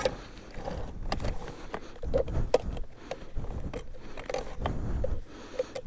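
Irregular metallic clinks, rattles and scrapes of a wire fence being handled and worked loose from a minibike it has snagged on.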